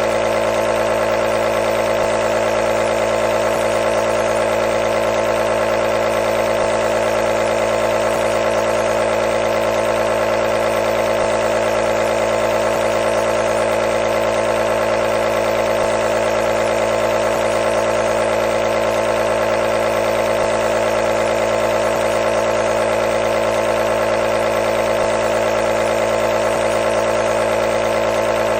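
Nebulizer running continuously: a steady mechanical hum with an even hiss, unchanging in pitch and level.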